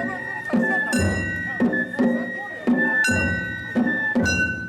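Japanese festival float music (hayashi): a high bamboo flute melody over regular strikes of a taiko drum together with clanging metal hand gongs.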